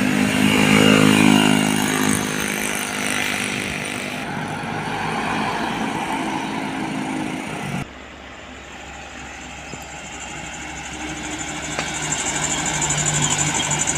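Heavy road vehicles, most likely trucks, driving past on a road. A loud engine passes in the first few seconds and fades. The sound drops abruptly about eight seconds in, then another engine grows louder toward the end.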